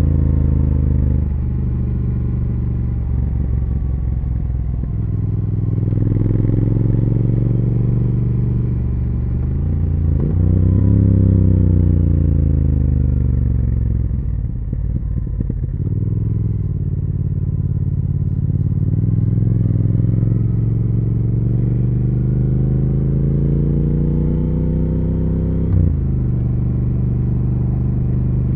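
Triumph Speed Twin 1200's parallel-twin engine and exhaust under way, the revs climbing and falling as the bike is ridden through the gears. Near the end a long steady climb in revs drops off sharply at an upshift.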